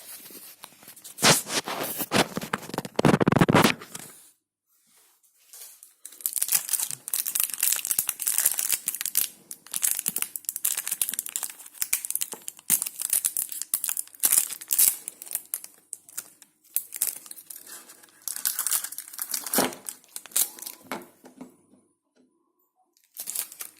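Plastic packaging crinkling and tearing in irregular handling bursts as dishwasher detergent is unwrapped, with short pauses between bursts.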